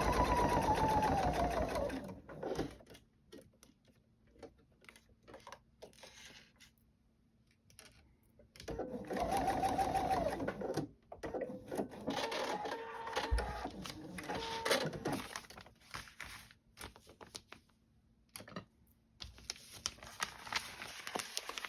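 Electric sewing machine stitching in short runs, three in all, its motor whine dropping in pitch as each run slows to a stop. Between runs there are light clicks and handling sounds.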